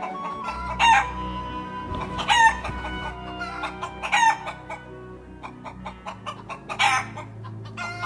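Four short, loud bird squawks at irregular intervals, over background music.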